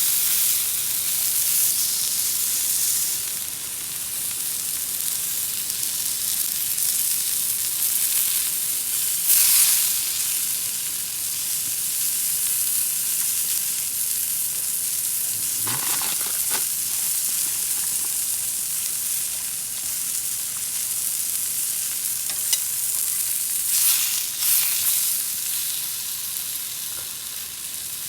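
Food sizzling steadily in a pan over a campfire, a hiss high in pitch, with a few brief scrapes or clicks about a third, halfway and most of the way through.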